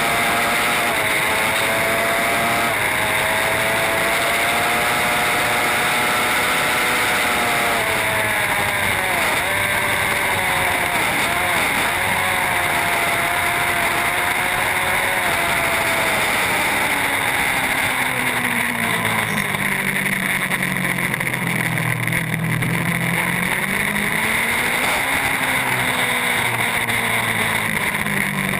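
Racing superbike engine running hard at high revs, with quick dips in pitch around gear changes. About two thirds of the way through the revs fall away to a low, slow run, then climb again near the end, over a steady rush of wind.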